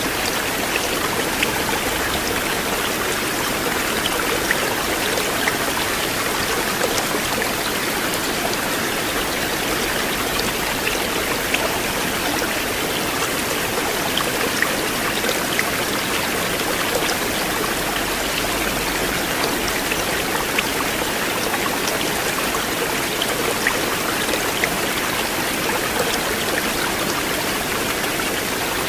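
River water flowing steadily, a constant rushing splash with scattered small droplet ticks.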